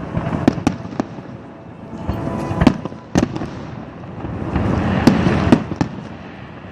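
Fireworks going off: several sharp bangs, some in quick pairs, over a continuous crackle.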